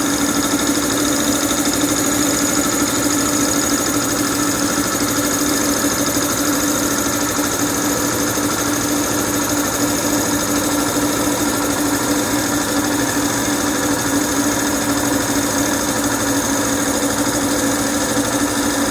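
Homemade V4 piston compressor driven by a single motor, running steadily with a fast, even pulsing beat and a steady hum.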